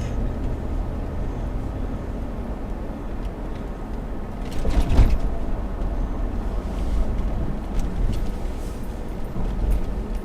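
Car engine and road noise heard from inside the cabin while driving: a steady low rumble, with a louder rush of noise about five seconds in.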